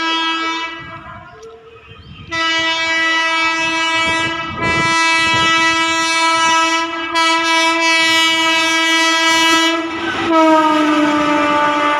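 Indian Railways electric locomotive horn: a short blast, a pause of about a second, then a long blast of about eight seconds whose pitch falls near the end as the train goes by. Wheel rumble and rail clatter run underneath.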